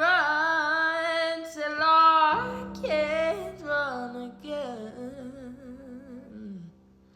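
A pop song's closing bars: a singer holds long, wavering notes over steady low held chords. The music fades out near the end.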